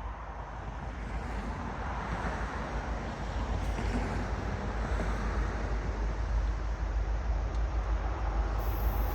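Approaching train's rumble growing steadily louder, with wind buffeting the microphone.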